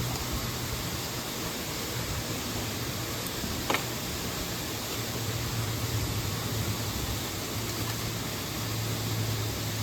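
Steady rush of a mountain stream and waterfall, with one sharp click a little under four seconds in.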